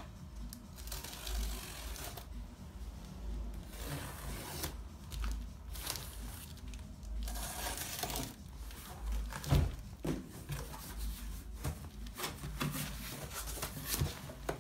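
A cardboard shipping box being unpacked by hand: tearing and rustling of tape, cardboard and packing material, with scraping and clicks and a sharp knock about nine and a half seconds in.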